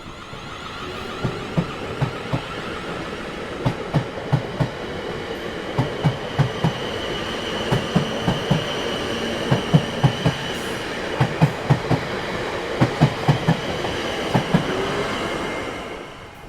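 A train rolling past, its wheels clacking over the rail joints in quick groups of two and three, with a high steady squeal partway through. The sound dies away near the end.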